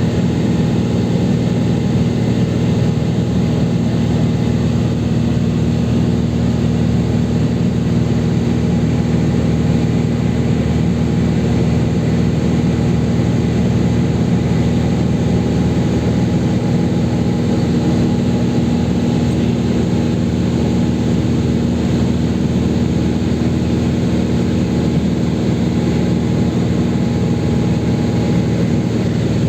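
Cessna 182's single piston engine and propeller droning steadily in flight, with no change in pitch.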